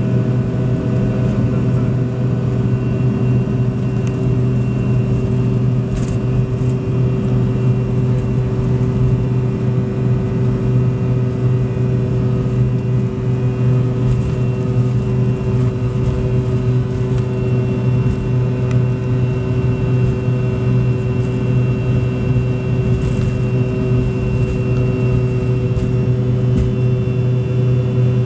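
Fokker 100 airliner's Rolls-Royce Tay turbofan engines running steadily: a loud, even drone with a strong low hum and several steady whining tones above it.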